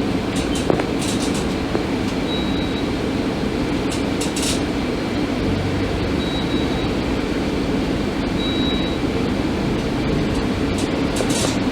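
Scania K310IB articulated bus running, a steady engine and road rumble with a few short rattles. Faint short high beeps sound several times.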